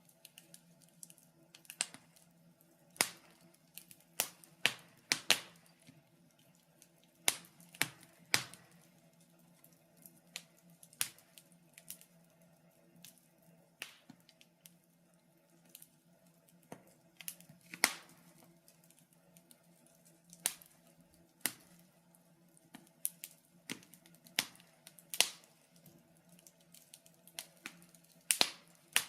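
Wood fire crackling in a fireplace: irregular sharp pops and snaps, some single and some in quick clusters, over a faint steady low hum.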